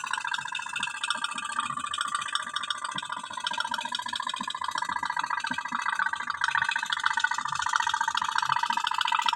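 Toy pop-pop boat (putt-putt steam boat) running, its heated boiler diaphragm making a fast, even stream of rattling pops.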